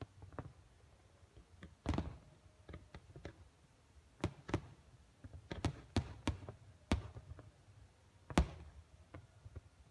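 Distant fireworks bursting in an uneven series of sharp bangs and pops, about eight in all, several close together in the middle, each with a short echoing tail, over a faint low rumble.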